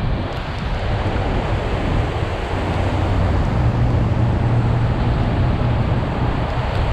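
A car on a flooded road: a steady loud rush of water and road noise around the vehicle over a low, even engine drone.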